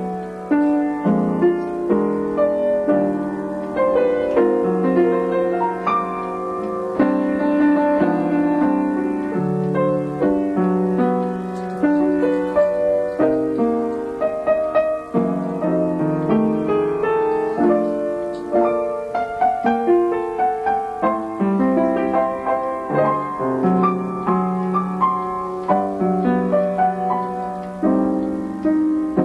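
Piano being played: a tune in chords with a melody line, a new note or chord struck every half second to a second.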